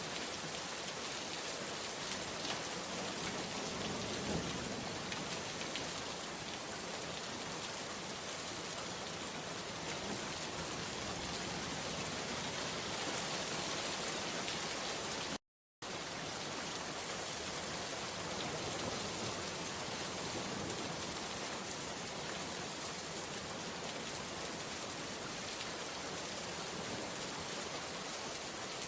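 Steady rain falling, a dense, even patter of drops. About halfway through, the sound cuts out to silence for a split second, then resumes.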